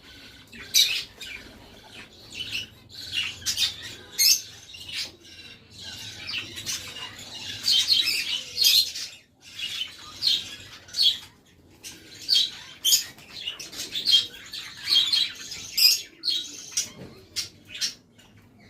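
Pet parrots in a mixed aviary of cockatiels, lovebirds and budgerigars chirping and squawking, short sharp calls overlapping one after another.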